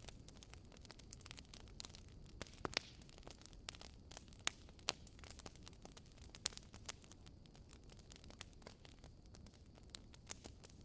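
Wood fire in a fireplace crackling, with irregular sharp pops and snaps over a soft low rumble of the flames.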